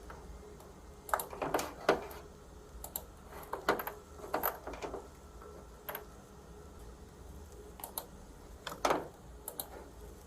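Irregular clicking of typing on a computer keyboard, in short clusters of keystrokes with pauses between, over a low steady hum.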